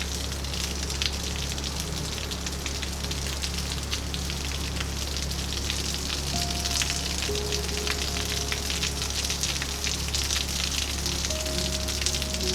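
Heavy rain falling steadily, a dense hiss full of close drop ticks, with soft calm music underneath holding long, slow notes.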